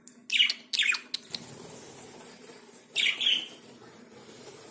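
Lovebirds giving short, sharp chirps: a quick run of about three near the start and two more about three seconds in, over a faint steady hum.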